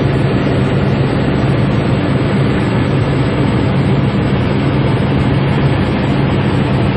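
Helicopter in flight, its engine and rotor running with a steady, unchanging drone and a low hum.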